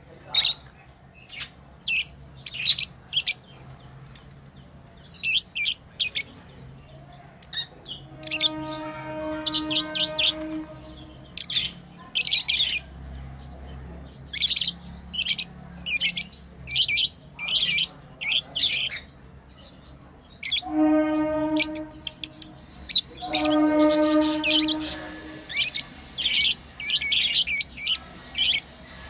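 Pet lovebirds chirping: quick runs of short, sharp, high chirps. Three longer, steady, lower-pitched sounds of a second or two come in among them, one about a third of the way in and two later on.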